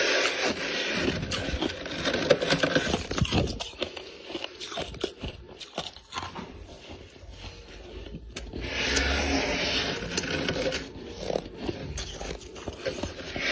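Freezer frost being bitten and chewed close to the microphone, a crunchy crackling. It comes in two loud bouts, one at the start and one a little past the middle, with quieter chewing between.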